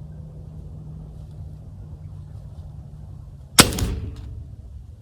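A single gunshot at a bird in a tree, about three and a half seconds in, sharp with a short ringing tail and a fainter click about half a second later; the shot misses. A steady low hum runs beneath.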